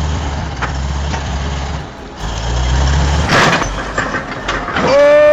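Heavy truck engine rumbling, broken by a short loud noisy burst about three seconds in. A loud pitched tone starts near the end.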